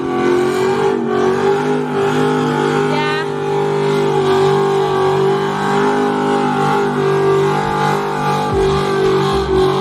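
Car engine held at high revs during a burnout, running loud and fairly steady.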